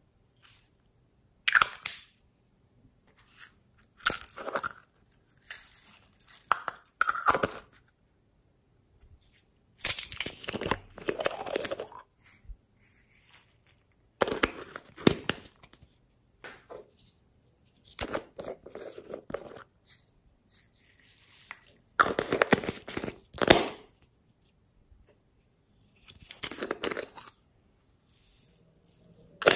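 Hands squeezing and kneading slime in irregular bursts, each a second or two long, with short quiet gaps between.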